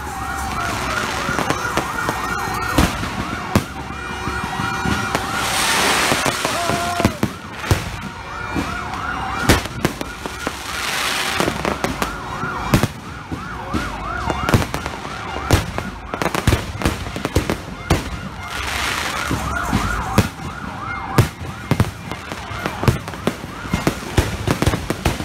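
Aerial fireworks going off in rapid succession: many sharp bangs, with bursts of crackling about six, eleven and nineteen seconds in. Underneath, a siren-like tone rises and falls over and over.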